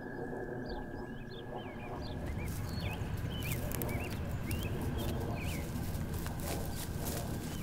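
Birds chirping in many short repeated calls over a low rumble and a thin steady high tone; from about two seconds in, a scatter of sharp clicks joins them.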